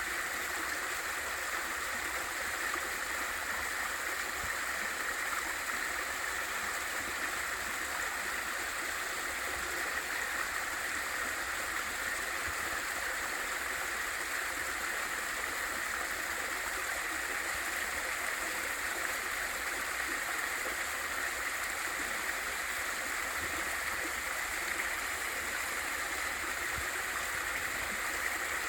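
Small waterfall pouring into a mountain valley stream: steady rushing and gurgling water with no breaks or changes.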